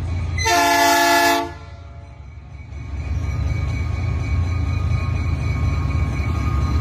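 Diesel freight locomotive's air horn sounds once, a single blast of about a second, over the steady low rumble of the train. After the horn the rumble dips and then grows louder again.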